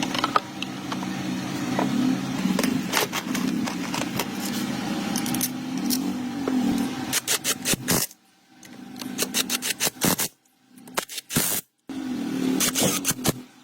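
A motor running with a low hum that wavers up and down in pitch. About eight seconds in it breaks off into near-silent gaps full of sharp metallic clicks and scrapes, then hums again briefly near the end.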